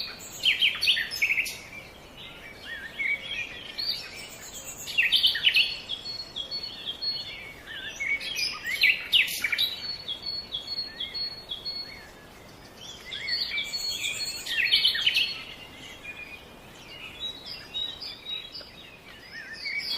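Small birds chirping and calling, many short high chirps and trills coming in busy bursts with quieter lulls between.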